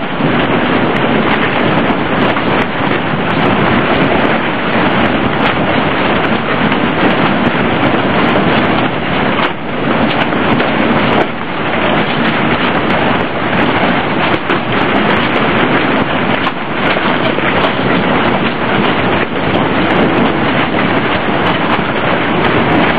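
Storm winds of about 130 km/h battering a tent on open tundra. The wind makes a loud, unbroken rush, with frequent quick snaps and rattles of the tent fabric.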